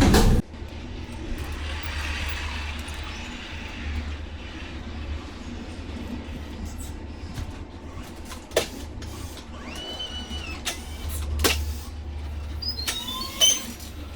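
A low, steady engine hum runs throughout, with a few sharp knocks and a brief high squeal about ten seconds in.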